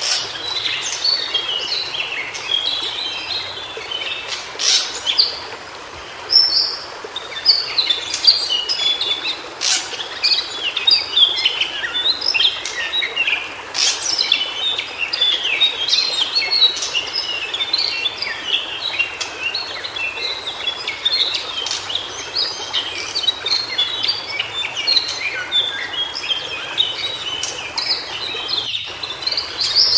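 White-browed shortwing singing: a long, fast, jumbled warble of short high notes tumbling one after another without a break, over a steady outdoor hiss. A few sharp clicks cut in during the first half.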